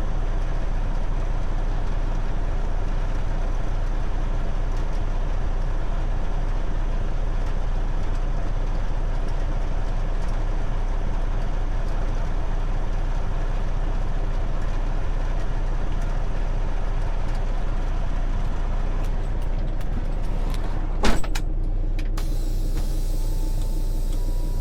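Motor vehicle running with a steady low engine-and-road rumble. A sharp click comes near the end, after which the rumble thins out and a faint steady tone is heard.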